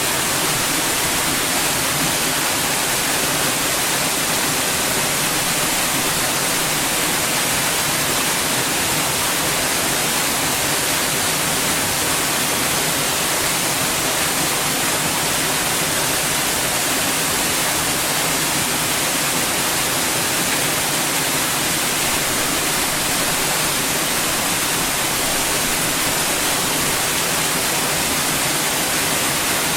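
Steady white noise: an even, unchanging hiss, brightest in the high treble, with a faint low hum underneath.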